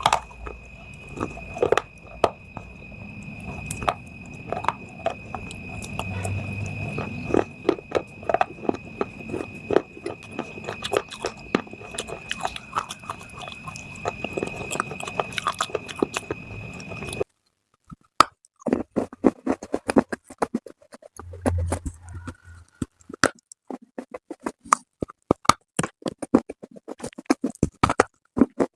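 Close-up crunching and chewing of hard baked clay: rapid, dense crisp cracks and mouth noises. A steady high whine sits under the first two-thirds and stops suddenly, after which the crunches come as sharper, separate bites.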